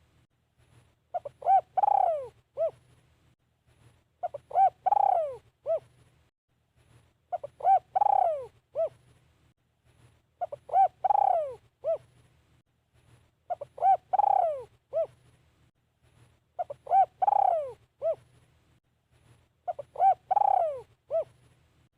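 Spotted dove cooing its phrase over and over, about every three seconds: two short coos, then a long, loud coo that falls in pitch, then one short coo.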